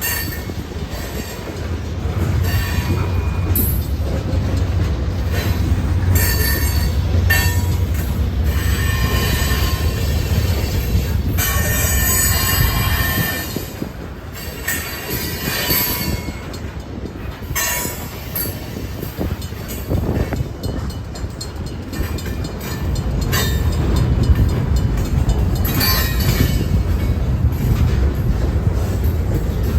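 Freight train cars rolling past, their wheels rumbling and clattering on the rails with repeated short, high-pitched squeals. The rumble eases off for several seconds partway through, then builds again.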